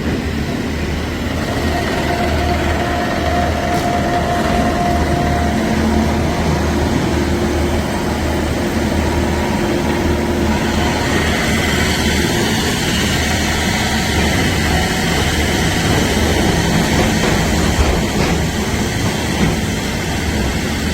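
Hydraulic core-drilling rig for rock boring running steadily, with a loud, continuous low drone and a faint whine held for a few seconds early on.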